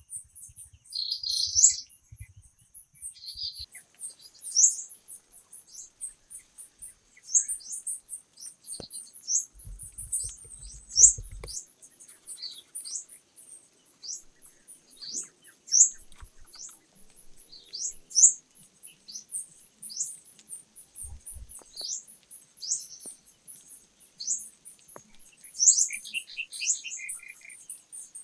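Birds chirping: a steady run of short, high, falling chirps, with a faint continuous high-pitched tone underneath.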